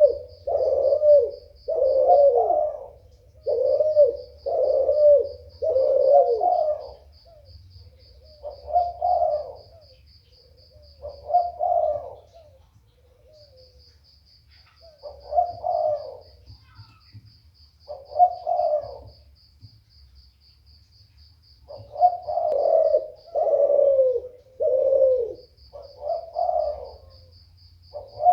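Puter (Barbary dove) cooing in runs of repeated coos, with short pauses between runs, about a dozen notes then a gap then more; a lively 'gacor' calling recording of the kind played to set other doves calling. A fast, steady high ticking runs behind much of it.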